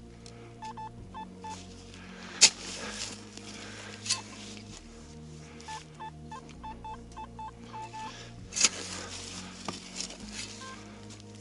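Metal detector giving runs of short, evenly spaced beeps as it is passed over a buried target. A few sharp knocks of digging into the soil stand out, the loudest about two and a half seconds in and again near nine seconds.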